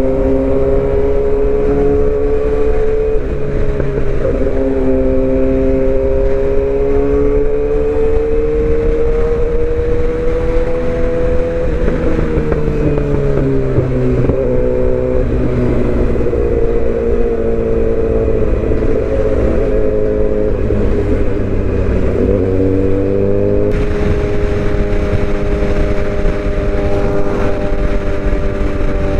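Suzuki GSX-R750 inline-four with aftermarket headers, midpipe and slip-on exhaust, running at steady cruising revs with wind noise. The engine note drops a little in the middle and comes back up near the end.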